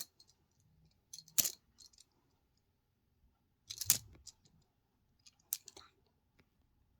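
Small hard toy pieces clicking and clattering as they are handled, in three short bursts about a second, four seconds and five and a half seconds in.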